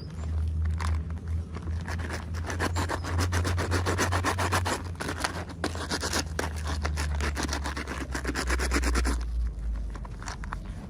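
Packaging being rubbed and handled, a dense crackle that stops about nine seconds in, over a steady low hum.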